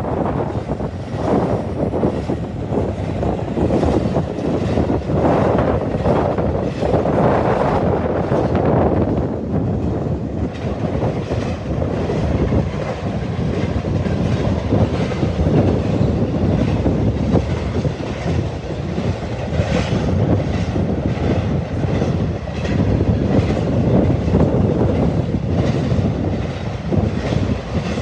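A train passing close by, its cars' wheels rolling and clattering over the rails.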